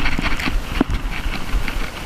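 Jon boat moving under an electric trolling motor, a steady running sound mixed with irregular low thumps and scattered light knocks and clicks.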